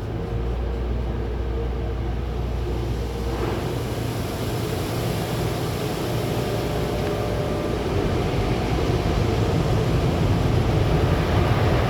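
Automatic car wash tunnel equipment running: a steady low mechanical hum, with a hissing rush that comes in about three seconds in and grows gradually louder.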